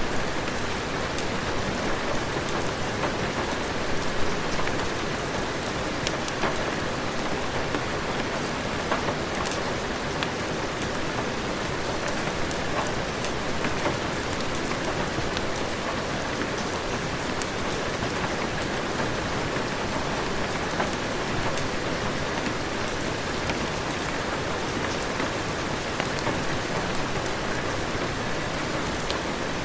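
Heavy rain falling steadily, an even dense hiss with many small sharp ticks scattered through it.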